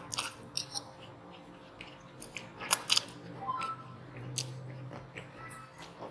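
Close-miked eating of spicy instant noodles: wet chewing with sharp mouth clicks and smacks, the loudest pair about three seconds in.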